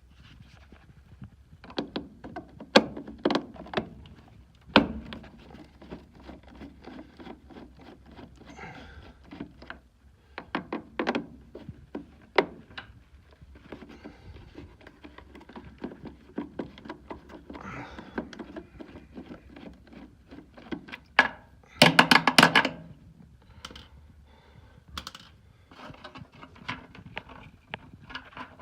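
Hands and tools working on a gas furnace, with scattered knocks, thunks and clicks. A quick run of rapid clicking about twenty-two seconds in is the loudest part.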